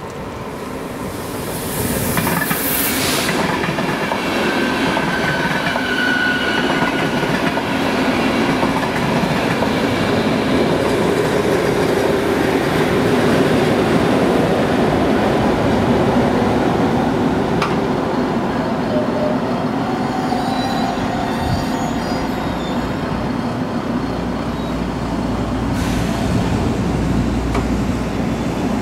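ÖBB class 1144 electric locomotive and its passenger train passing over a level crossing, a steady rolling rumble of wheels on rails that builds about two seconds in and stays loud. A brief high squeal comes a few seconds in.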